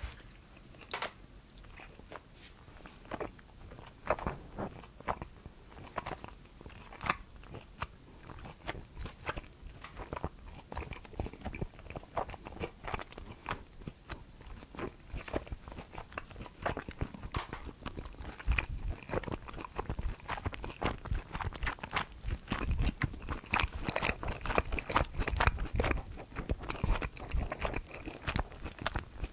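A person biting into and chewing pan-fried dumplings glazed in a gochujang-based sauce: a run of irregular small cracks and clicks. It grows louder and denser, with deeper chewing sounds, about two-thirds of the way through.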